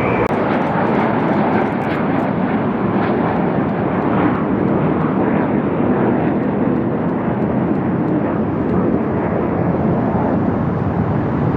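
Airplane in flight, its engine noise a loud, steady rush with no clear rise or fall.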